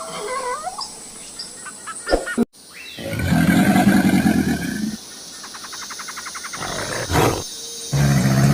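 Birds chirp for the first couple of seconds, then a big cat (lion or tiger) gives two loud, deep growling roars, one about three seconds in and one near the end, with a rapid trill between them.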